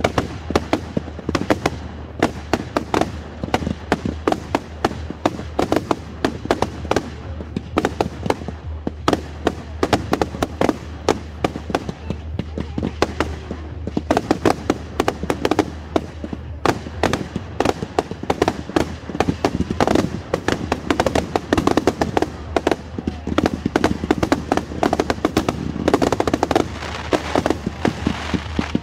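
Fireworks display: aerial shells and multi-shot cakes going off in quick succession, a near-continuous run of loud bangs and pops several times a second.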